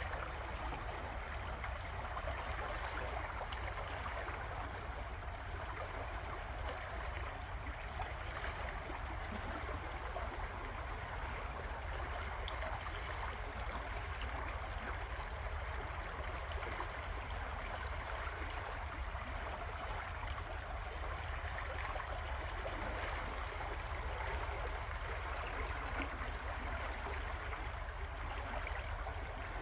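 River water flowing steadily, an even rushing hiss with a low rumble underneath and no change throughout.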